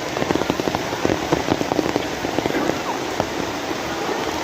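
Rain falling, with many individual drops striking a hard surface close by; the separate drop hits thin out in the second half, leaving a steadier hiss of rain.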